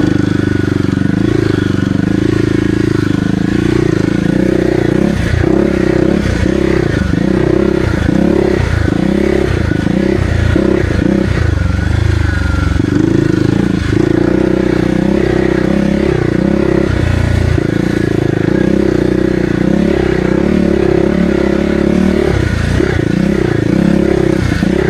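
Kawasaki KLX300R dirt bike's single-cylinder four-stroke engine being ridden on a trail. The revs rise and fall over and over as the throttle is rolled on and off, then run steadier in the second half.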